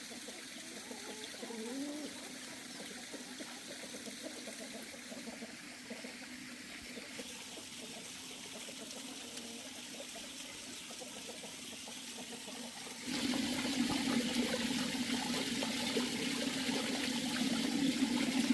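Water trickling and running steadily, suddenly louder about thirteen seconds in.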